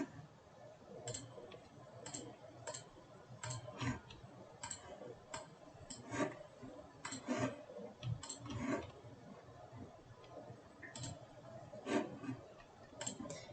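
Computer mouse and keyboard clicking: short, sharp single clicks at irregular intervals, some in quick pairs, at a low level.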